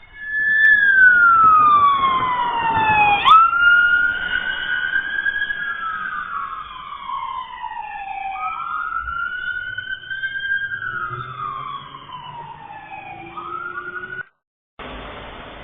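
Emergency vehicle siren wailing, its pitch sliding down and climbing back up in several slow sweeps. It cuts off abruptly near the end, and a steady rush of road noise follows.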